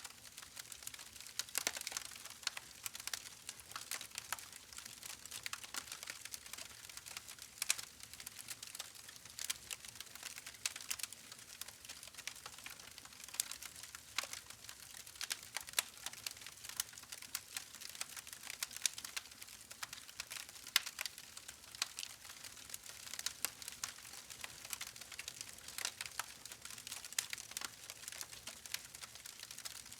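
Campfire burning: a steady hiss with many sharp, irregular crackles and pops of burning wood.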